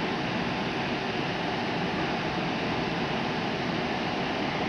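EP2D electric commuter train running at speed, heard from inside the carriage: a steady, even running noise.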